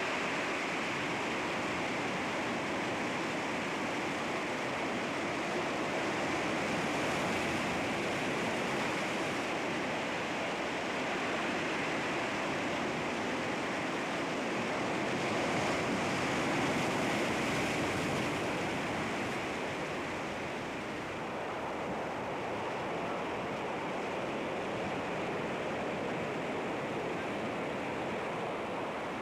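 Sea waves washing against rocks, a continuous surf with slow swells in loudness as the waves come in.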